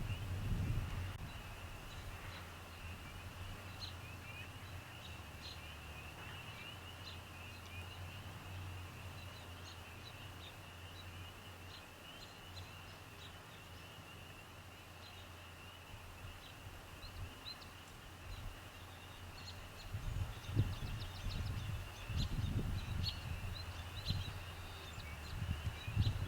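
Faint outdoor chorus of distant birds chirping, a steady high twittering with scattered short chirps. Low rumbling comes in near the end.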